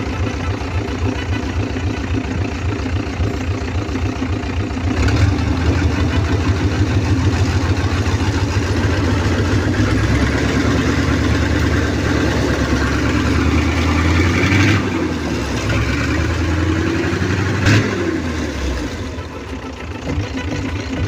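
Hino F17E eight-cylinder diesel engine running: it idles with an even pulse, is revved up about five seconds in and held at higher speed, then drops back to idle near the end. There is one short sharp sound a little before the drop.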